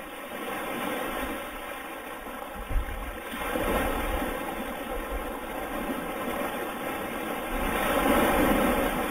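Steady outdoor noise with wind rumbling on the microphone, growing a little louder near the end.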